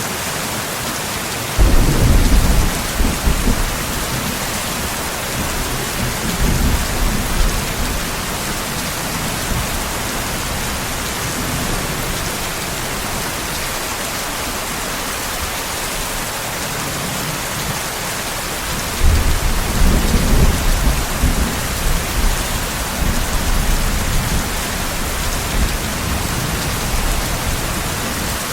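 Steady heavy rain hissing, with thunder rumbling in twice: a sudden low rumble about two seconds in that dies away over a few seconds, and another starting about two-thirds of the way through that rolls on for several seconds.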